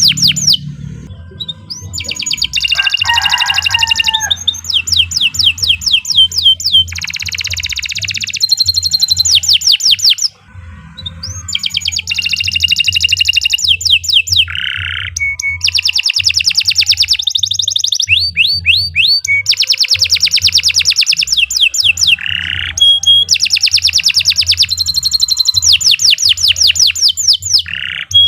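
Domestic canary singing a long, continuous song of fast trills and rolls, each phrase a rapid run of repeated notes, with a short break about ten seconds in.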